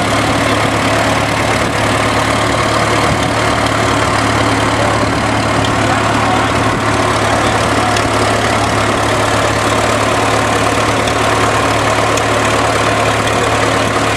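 A 1926 Fordson tractor's four-cylinder engine, burning kerosene, running steadily at an even speed.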